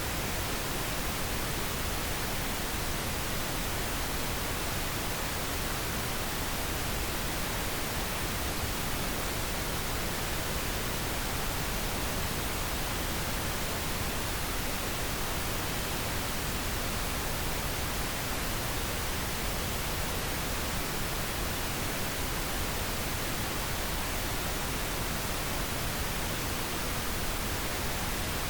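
Steady, unchanging pink noise: an even hiss spread across the whole range, played continuously as a sleep aid.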